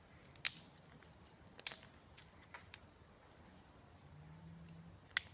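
Sharp, single cracks of small wet wood, four of them spread over a few seconds, at a small campfire.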